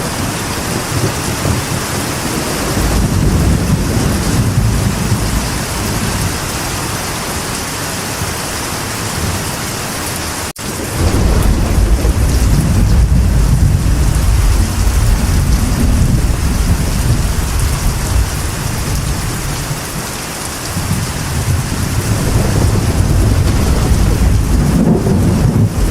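Steady rain on a metal roof, with low thunder rumbling and swelling several times. The sound drops out for an instant about ten seconds in, then the thunder comes back strongest.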